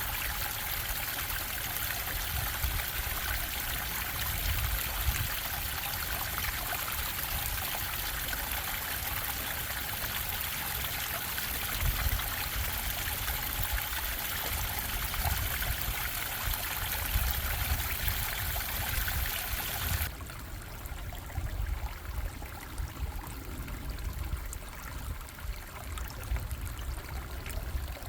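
Steady rush and babble of a stream's running water. About twenty seconds in it changes abruptly to a quieter, duller water sound.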